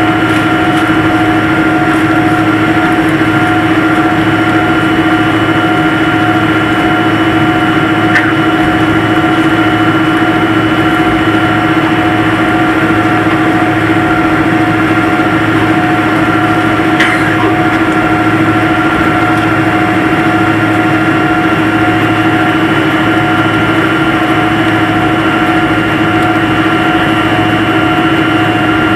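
Airliner cabin noise: the jet engines and cabin air running in a steady drone with a constant whine, heard inside the cabin. Two faint clicks come about a third and about two thirds of the way through.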